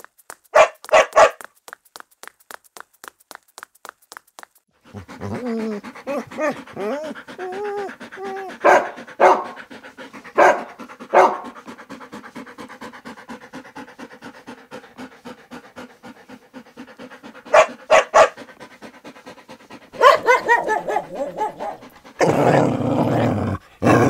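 A dog panting quickly and barking: two barks about a second in, a few more in the middle, a pair later on, and a run of louder barking near the end.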